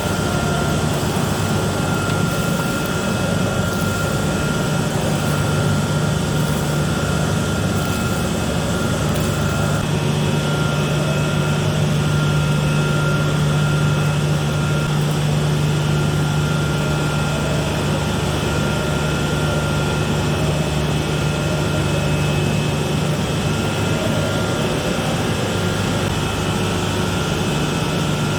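Steady machinery running, a continuous low hum with a thin high whine above it, unchanging throughout.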